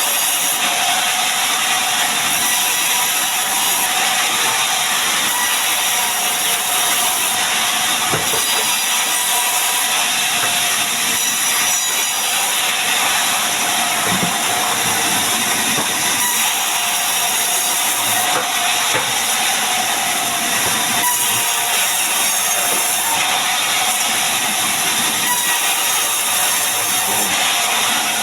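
Sawmill machinery running steadily while cutting mahogany timber into beams, a constant loud hiss with a steady drone under it.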